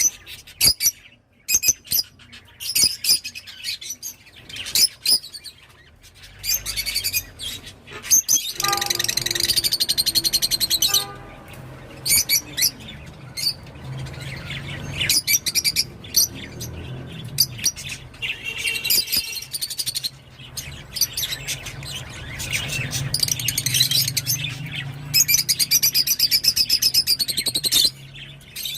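Rosy-faced lovebirds chirping and chattering in sharp, high calls, with two stretches of dense rapid chatter, over a low steady hum.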